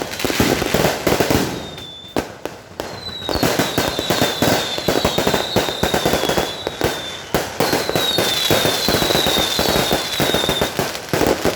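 Fireworks going off in rapid succession: a dense run of bangs and crackles, joined from about three seconds in by many overlapping whistles falling in pitch.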